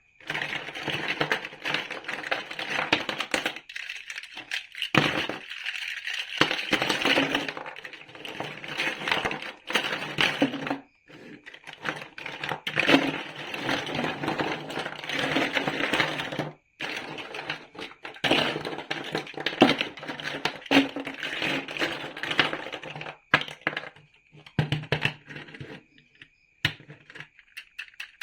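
Plastic building bricks clattering and clicking as they are sorted and pressed together, a dense run of small clicks with a few short pauses.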